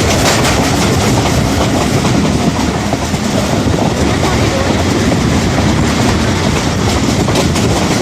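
A train running on the rails: a loud, steady rumble of wheels and wagons with many sharp clicks and clatters throughout.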